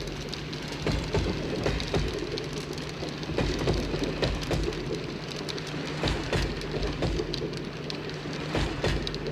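Model train running on its track: a steady hum with a stream of irregular clicks and light rattling.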